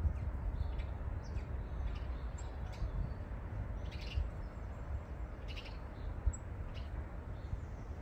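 Short, scattered bird chirps and calls, a few brief and high-pitched, over a steady low rumble.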